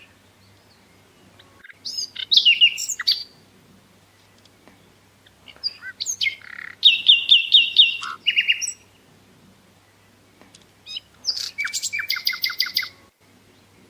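A songbird singing three short, lively phrases of quick chirps and rapid repeated notes, with a pause of about two seconds between phrases.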